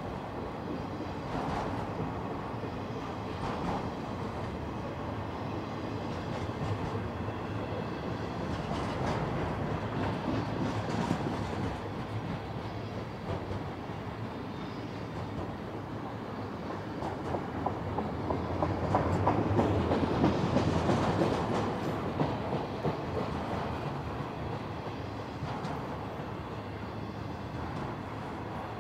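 Freight train cars rolling past on the rails: auto-rack cars, then double-stack container cars and trailer flatcars, a steady wheel-on-rail rumble that swells louder for a few seconds about two-thirds of the way through.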